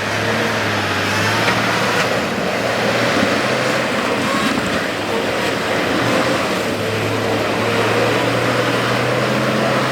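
Off-road 4x4 vehicle's engine running steadily under load, a continuous drone.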